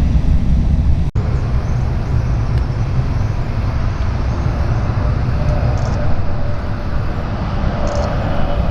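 Jet airliner engines heard as a steady low rumble, with a brief dropout about a second in.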